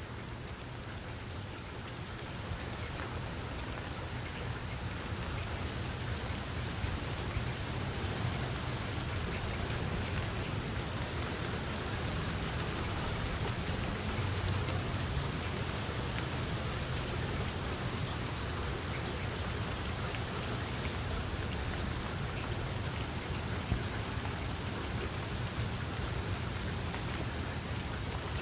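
Steady rain falling, a dense even hiss of drops with a low rumble underneath.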